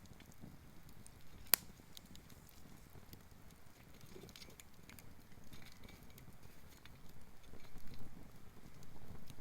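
Bonfire of gathered fallen wood crackling with scattered small pops, and one sharp loud crack about a second and a half in. Near the end a low rumbling noise grows louder for a couple of seconds.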